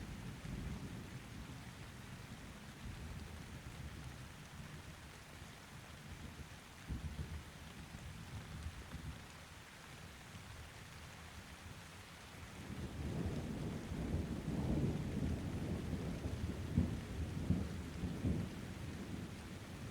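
Thunderstorm: steady rain hiss under rolling thunder. A low rumble fades over the first few seconds, then a new peal of thunder builds about two-thirds of the way through and rumbles on with crackling peaks to the end.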